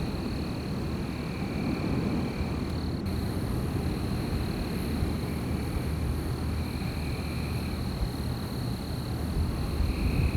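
Wind blowing steadily with a low rumble. Above it are a continuous high-pitched night chorus and a shorter high trill that comes and goes every couple of seconds.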